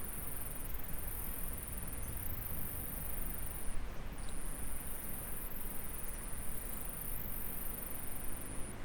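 Insects trilling in a steady high band that breaks off for a moment about once a second, over the even rush of a flowing stream.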